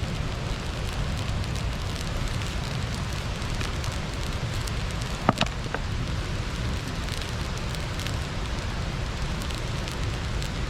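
Wood fire crackling over a steady rush of flowing water from a small weir. Two sharp knocks, about half a second apart, come a little past halfway.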